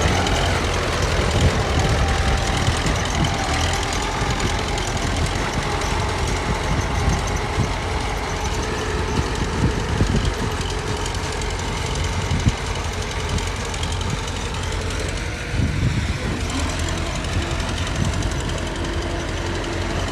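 Heavy earthmoving machine's diesel engine running steadily, with scattered short knocks and clanks over it.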